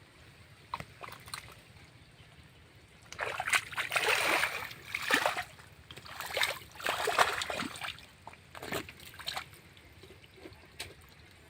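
Water splashing and sloshing in irregular bursts, loudest in two spells around the middle, with scattered small splashes in between.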